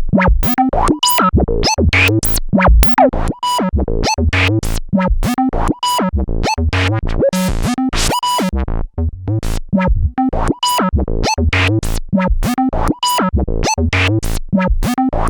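Korg monologue monophonic analog synthesizer playing a factory preset: a fast, steady, repeating pattern of short, bright, plucky notes, about three to four a second.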